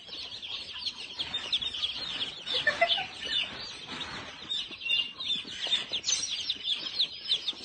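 Many birds chirping at once in a dense, continuous chatter of short high calls, with a few lower calls about two and a half seconds in.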